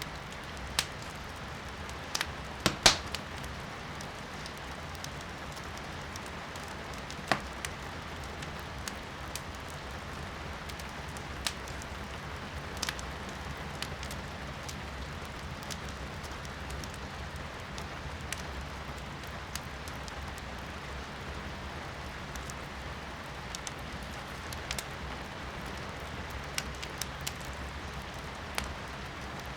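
Firewood burning in a fireplace, crackling and popping in scattered sharp snaps, a cluster of the loudest about two to three seconds in, over the steady hiss of rain heard from indoors.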